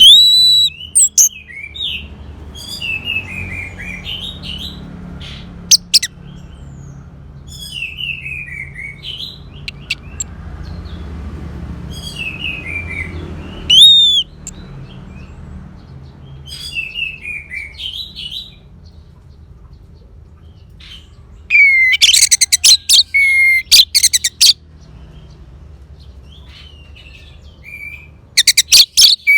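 Orange-headed thrush singing: a string of short whistled phrases, many sliding down in pitch, with a fast burst of rapid chattering notes about three-quarters of the way through. A low hum runs underneath.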